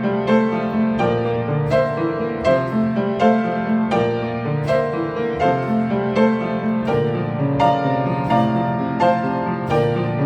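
A century-old upright piano, slightly out of tune, playing a slow, repeating minimalist pattern of held notes and chords, several notes a second.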